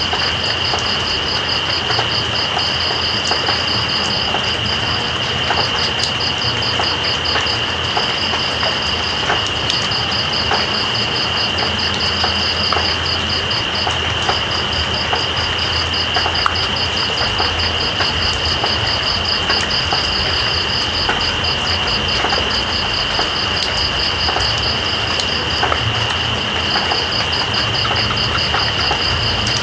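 Night insect chorus: one insect holds a steady high drone while a cricket trills in fast pulses that break off and restart several times. Under it runs a steady hiss of rain with scattered drip ticks and a low rumble.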